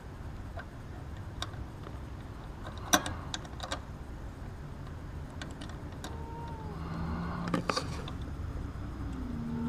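Scattered small metallic clicks and rattles of hand tools and parts being handled, the loudest about three seconds in, over a steady low rumble. Near the end come a few faint short calls that fall in pitch.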